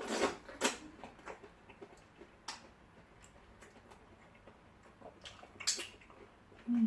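Eating at close range: scattered mouth clicks and smacks from chewing and swallowing fufu with slimy ogbono soup. The louder smacks come in the first second and again about five and a half seconds in.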